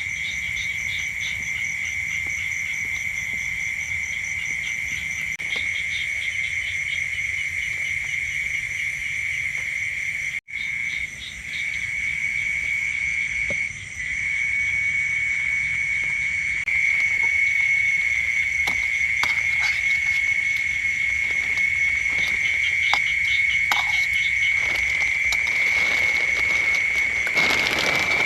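Night-time chorus of calling frogs and insects: a steady high-pitched trill that goes on unbroken, with fainter rapid pulsing above it. It breaks off for an instant about ten seconds in.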